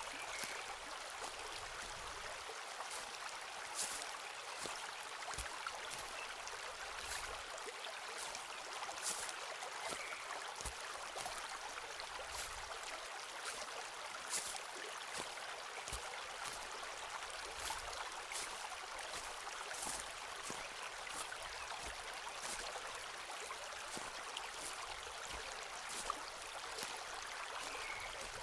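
Regular footsteps crunching on a forest path, sharp little crackles of leaves and twigs underfoot, over the steady rush of running water.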